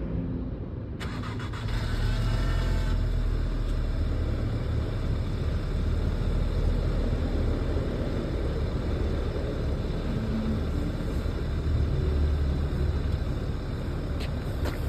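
A Cupra 280's 2.0-litre turbocharged four-cylinder is cold-started. About a second in, the starter cranks and the engine catches; the revs flare up over the next couple of seconds, then settle into a steady, raised cold-start idle.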